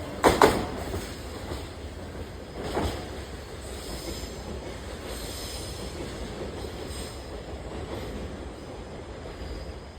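Freight train wagons rolling past. The wheels clack over rail joints, sharply in the first half second and once more around three seconds in, over a steady rumble that slowly eases.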